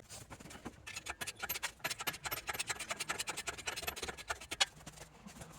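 Ratchet strap being cranked: a rapid run of metallic ratchet clicks from about a second in, stopping near the end, as the strap is tightened to pull the car backwards.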